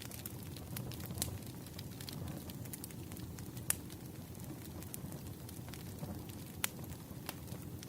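Wood fire crackling: scattered sharp pops and snaps, three of them louder than the rest, over a steady low rumble.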